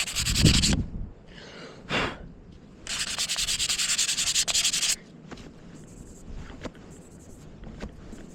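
180-grit sandpaper rubbed by hand back and forth over a motorcycle exhaust, scuffing the surface before painting. A short burst of scraping at the start and another briefly near two seconds in, then a long run of quick strokes, before it eases to faint scratching.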